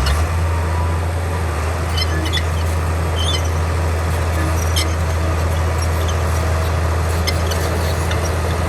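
Bulldozer diesel engine running steadily in a low drone, with short high clicks and squeaks now and then.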